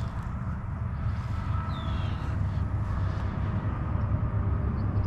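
Steady low outdoor rumble, with one faint short chirp falling in pitch about two seconds in, from a bird in the woods.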